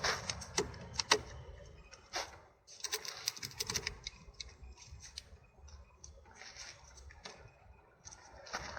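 A series of sharp clicks and light rattles at irregular spacing. The loudest click comes about a second in, and a quick cluster of clicks follows about three to four seconds in.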